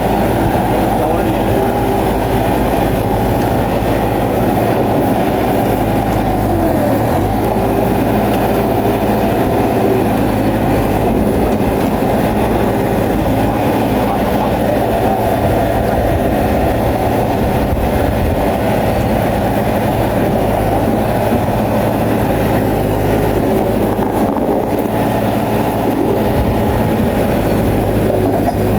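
Crawler bulldozer at work: its diesel engine runs steadily under load, with the engine note shifting briefly about six seconds in and again near the end.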